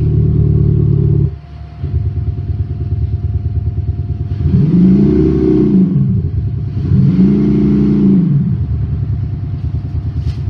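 Synthetic engine sound from a Panthera Leo Active Sound system on a BMW i8, held at a steady drone and then revved up and back down twice in a row.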